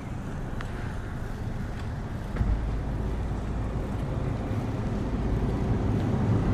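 Wind buffeting the microphone of a moving bicycle: a steady low rumble that steps up about two seconds in and keeps growing louder.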